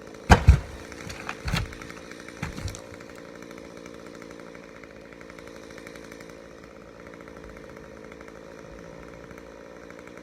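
A chainsaw running steadily at low revs, with several heavy thuds in the first three seconds, typical of cut chunks of Douglas fir trunk hitting the ground.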